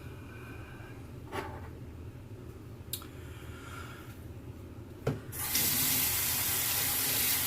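Bathroom sink tap turned on and running in a steady stream for about two and a half seconds, starting about five seconds in. Before it, a few light clicks and taps.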